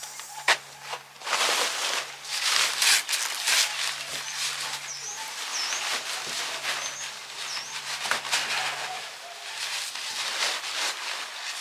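Irregular rustling and scraping with a sharp click about half a second in. A bird chirps a few times in the background midway, over a faint steady low hum.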